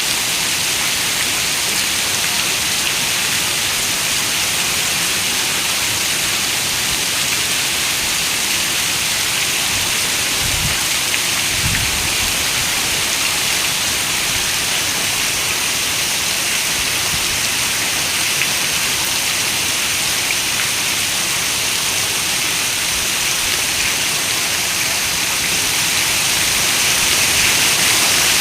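Heavy rain falling steadily on a window, a dense even hiss, with two brief low rumbles about ten and twelve seconds in. The rain swells slightly near the end.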